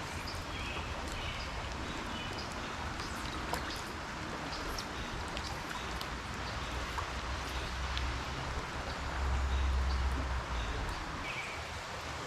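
Steady hiss of rain and flowing creek water with scattered small drip ticks. A low rumble swells about nine seconds in and fades a second or so later.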